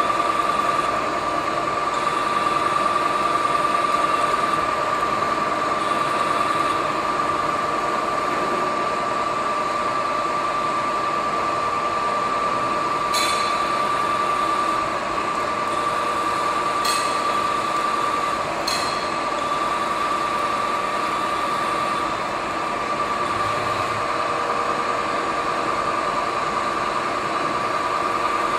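KNUTH BO 130 CNC horizontal boring and milling machine running, with a steady high whine over a continuous machine noise. Three short clicks come about halfway through.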